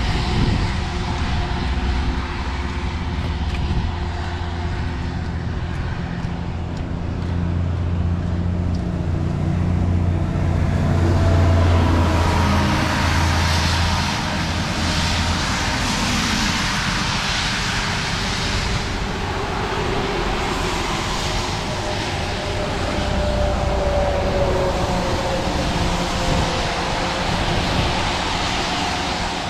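Road traffic passing on a wet road. An engine drones low and close through the first half, then tyres hiss on the wet pavement as vehicles go by, with a few rising and falling tones as they pass.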